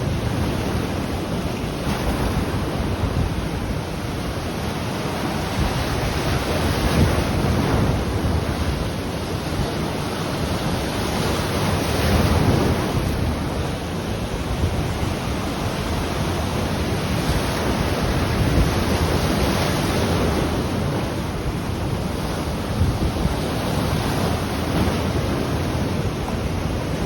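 Ocean waves breaking and washing on the shore in a steady rolling rumble that swells and eases every few seconds, with wind buffeting the microphone.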